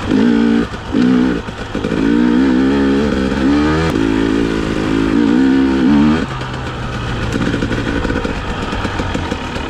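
KTM TPI fuel-injected two-stroke dirt bike engine under way, the throttle worked on and off: short drops in the first two seconds, a climb in pitch that falls off sharply about four seconds in, then steady pulling until about six seconds, when it eases to a lower, quieter note. The engine is running cold.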